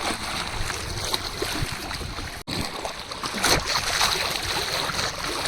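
River ambience: steady noise of water and wind, cutting out briefly about two and a half seconds in.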